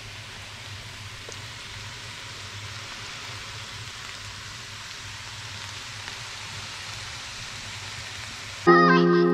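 Stir-fried bitter gourd with egg sizzling steadily in a frying pan, an even hiss over a faint low hum. Music starts suddenly near the end.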